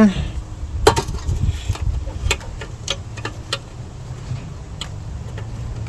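A few separate light clicks and taps of a sheet-steel patch panel being handled and fitted against a battery tray, over a low steady hum.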